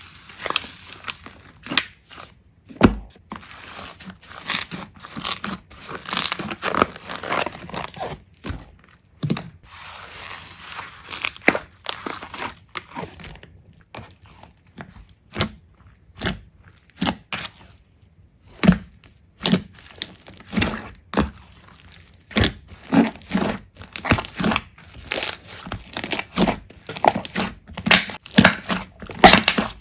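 Hands squeezing and poking slime: irregular sticky pops, crackles and crunches, some in dense runs, with short pauses between.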